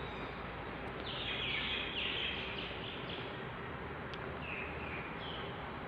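Small birds chirping: a quick run of short, falling chirps about a second in, then two more brief calls near the end, over steady background noise.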